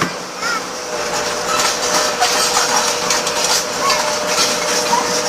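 Backhoe rolling on metal wheels over a concrete road: a continuous metallic clatter and scraping over a steady engine drone.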